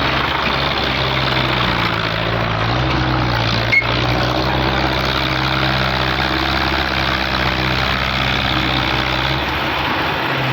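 Massey Ferguson tractor's diesel engine running steadily with a low, even drone, and a single sharp click about four seconds in.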